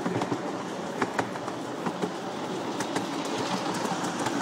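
Miniature steam railway train running along its track: a steady rumble with sharp clicks of the wheels over the rail joints at irregular intervals.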